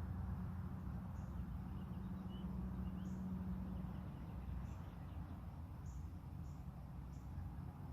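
Evening outdoor ambience: a steady low rumble, with short high chirps repeating roughly once a second and a few faint bird calls.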